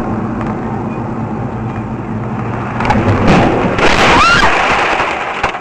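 Loud, rumbling road and vehicle noise picked up by a dash camera, growing louder about three seconds in. A brief squeal that rises and falls in pitch comes near four seconds.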